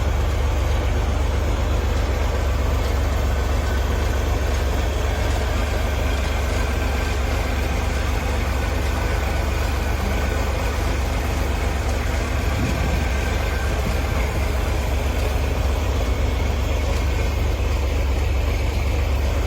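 1965 Chevrolet Corvair Monza's air-cooled flat-six engine running steadily with a loud, low rumble.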